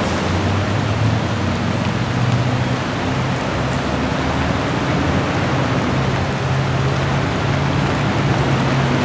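Steady loud rush of water, with a vehicle engine running underneath as a low hum that rises in pitch near the end.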